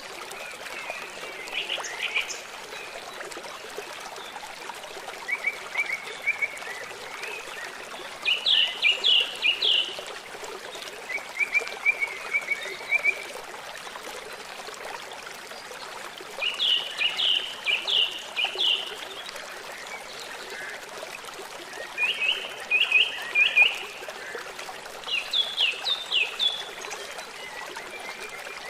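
River water flowing steadily, with a songbird singing short phrases of rapid chirping notes every few seconds.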